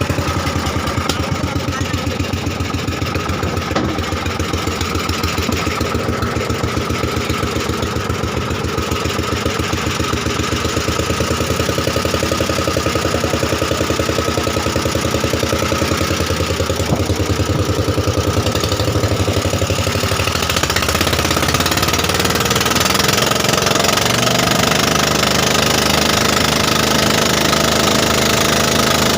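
Boat engine of a motorized bangka running steadily with a fast, even chugging beat, getting a little louder about two-thirds of the way through.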